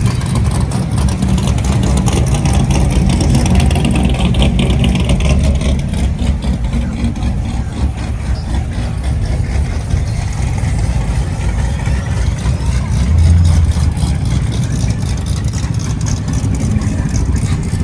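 Vehicle engines running at a street car meet, mostly idling, with a low engine swell about thirteen seconds in, over background crowd chatter.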